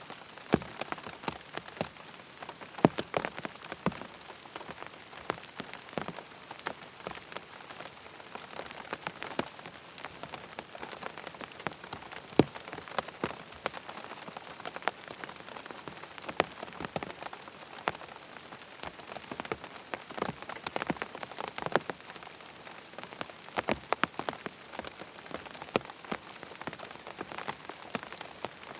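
Steady rain falling, with many sharp, irregular ticks of drops striking a surface over an even hiss.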